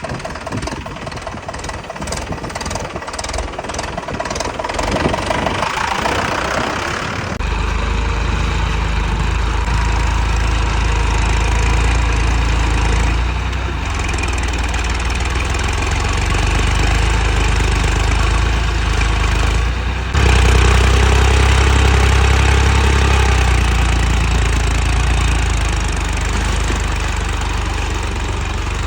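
A tractor engine running, with an even, rhythmic beat at first. About seven seconds in the sound changes abruptly to a deeper, steadier and louder engine sound, and it steps louder again suddenly about twenty seconds in.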